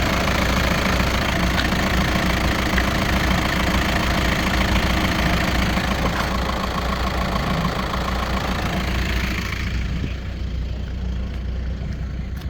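VW Golf 5 1.9 TDI pumpe-düse four-cylinder diesel (BXE) idling steadily with its diesel clatter. About ten seconds in the higher clatter falls away and a lower drone goes on.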